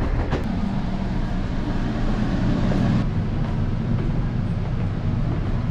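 Steady low rumble of a moving GO Transit bilevel commuter train, heard from inside the passenger coach. A higher hiss over the rumble drops away about three seconds in.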